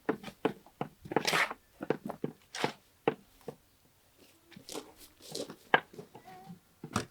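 Hands working a wet mud-and-hay mix: an irregular run of short crunches and straw tearing, with a longer rasping rustle a little over a second in and a brief pause midway.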